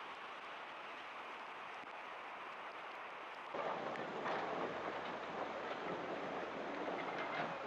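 Steady hiss of a heavy rainstorm. About three and a half seconds in it cuts to louder, denser storm noise with scattered pattering clicks.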